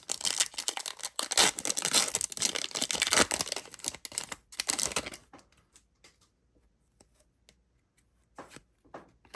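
Trading card pack wrapper being torn open and crinkled for about five seconds, then a few faint short rustles and clicks as handling goes on.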